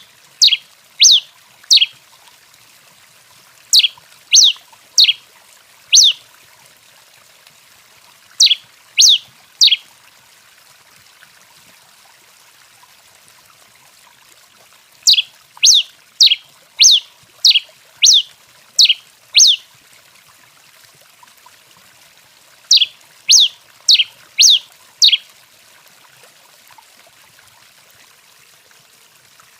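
Tico-tico-rei (pileated finch) calling: groups of three to eight sharp, quick notes, each sweeping downward, with a few seconds' pause between groups, over a faint steady hiss.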